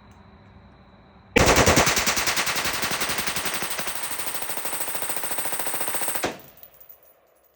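AR-15 firing as fast as the forced-reset selector allows, a continuous string of rapid shots lasting about five seconds and stopping suddenly as the 60-round drum empties. The rifle runs the whole drum in one go, the test of the forced-reset setup with an H2 buffer and modified flat-face trigger.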